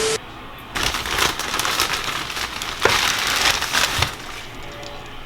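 Food frying in hot oil in a pan: a steady sizzle with irregular louder crackles.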